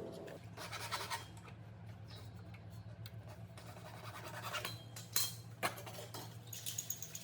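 Hand work on metal parts: a few short spells of scraping with sharp metallic clicks, over a steady low hum.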